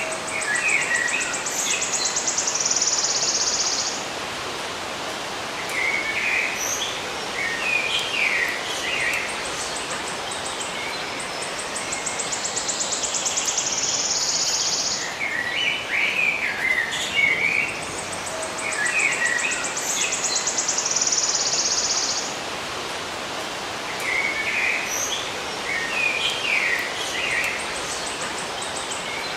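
Small birds chirping in short clusters, with a high insect buzz that starts as a fast trill and holds for three or four seconds, coming back about three times, over a steady background hiss.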